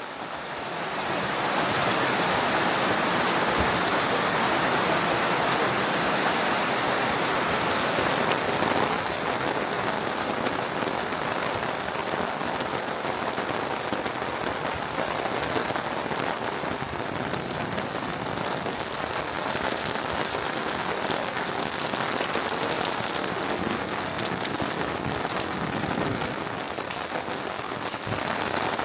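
Steady rain falling and pattering on surfaces, growing louder about a second in and easing a little after about nine seconds.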